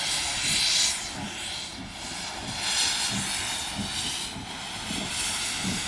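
Steam locomotive working, its hissing steam swelling three times in loud surges about two and a half seconds apart over faint low beats.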